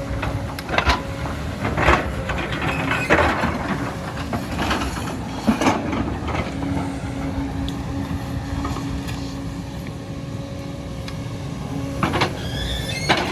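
Hydraulic excavator running with a steady hum, broken by sharp cracks and crunches as it works: several in the first six seconds and again near the end.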